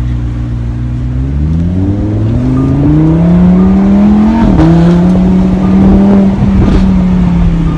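Lamborghini Huracan LP610-4's V10 engine accelerating, the pitch climbing steadily, then dropping sharply on an upshift about halfway through and holding fairly steady afterwards.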